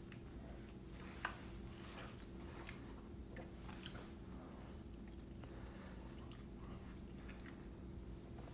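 A person chewing a mouthful of a steak grilled cheese burrito, with faint wet mouth crackles and a sharper click about a second in, over a low steady hum.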